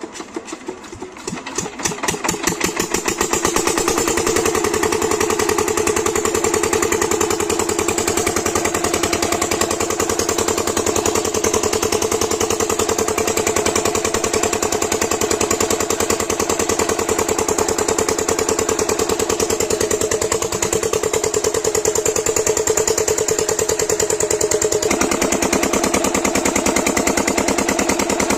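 7 HP diesel water-pump engine starting and picking up speed over the first few seconds, then running steadily with an even, rapid firing beat. Its tone changes abruptly about 25 seconds in.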